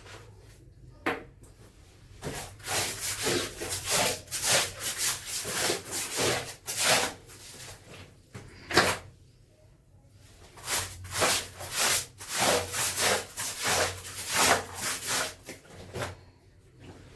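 Wet clothes being scrubbed by hand in two rhythmic runs of rubbing strokes, about two a second, with a sharp knock between them.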